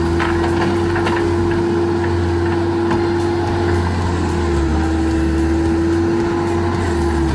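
Wood-cutting machine running with a steady engine drone, its pitch dipping slightly about halfway through, with a few faint sharp clicks.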